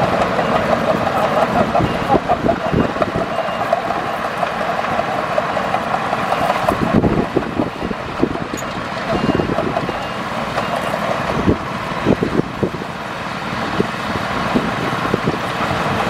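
Heavy earthmoving machinery working, with an engine running under frequent metallic clanks and knocks.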